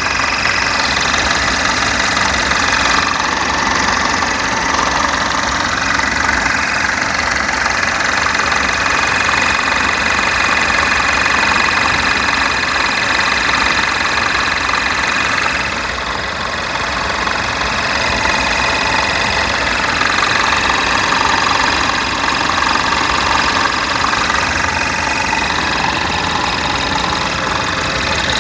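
Chevy Malibu engine running steadily at idle, with the unexplained noise the owner calls weird mixed into it. The noise eases slightly about sixteen seconds in.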